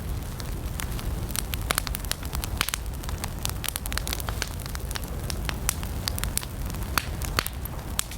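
Wood campfire burning with a steady low rumble of flames and frequent irregular sharp crackles and pops from the burning wood, a few louder pops near the end.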